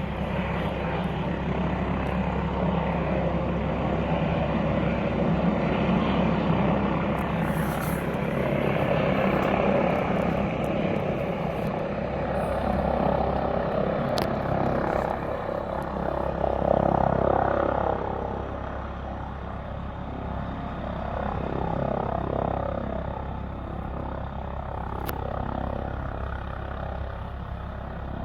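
Aircraft engine noise, a steady rumble that swells and fades, loudest about two thirds of the way through.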